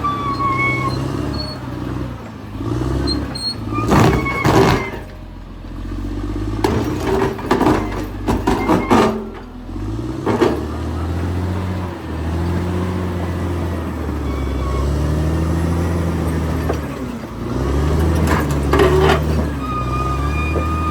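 Caterpillar D6R XL bulldozer at work: its diesel engine rises and falls in pitch as the load changes, with loud spells of clanking about four seconds in, again from about seven to ten seconds, and near the end.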